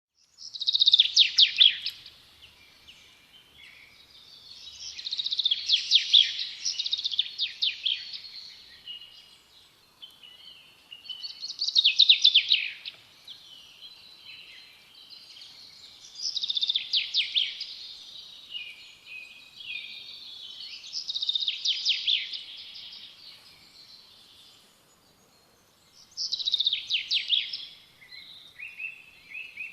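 A songbird singing: high trilled phrases, each one to three seconds long, repeated about every five seconds, with softer notes between them.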